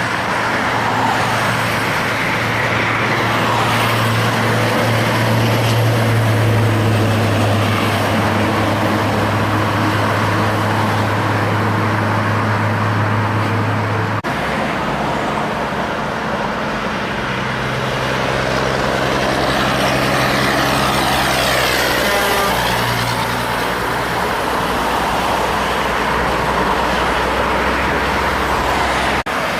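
Heavy diesel trucks and traffic passing on a highway: a steady low engine drone over tyre and road noise. The drone breaks off suddenly about halfway through, and another truck's drone comes in a few seconds later.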